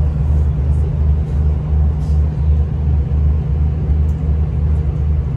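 Steady low rumble heard from inside a moving passenger train, with a low pulse about twice a second.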